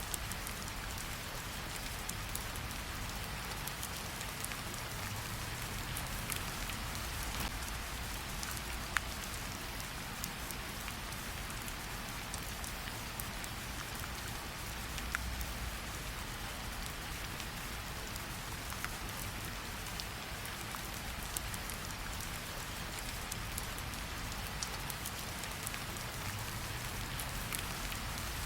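Steady rain falling with a low rumble beneath it, and scattered sharp crackles from a wood fire in a fireplace.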